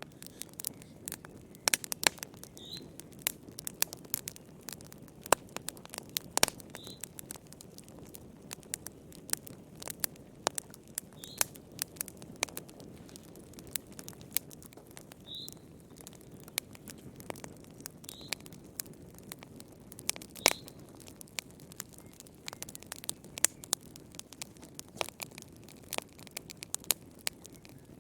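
Wood fire burning in a fireplace, with irregular sharp crackles and pops over a low steady rushing sound. Short faint high chirps come every few seconds.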